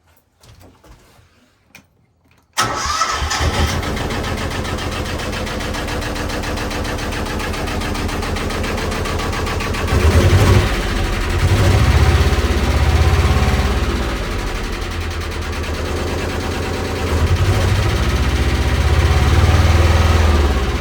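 Narrowboat diesel engine starting straight after a service and fuel-system bleed. It catches suddenly about two and a half seconds in and runs steadily, revved up a few times. It is a little bit noisy.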